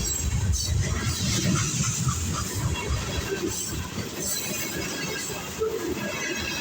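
A train passing, its wheels on the rails making a heavy low rumble with a hiss above it, loudest in the first couple of seconds and then easing a little.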